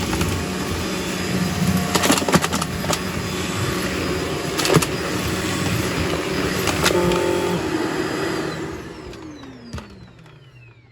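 Shark DuoClean vacuum cleaner running, with sharp clicks and cracks of debris chunks being sucked up. About eight and a half seconds in it is switched off and its motor winds down, the whine falling in pitch as it fades.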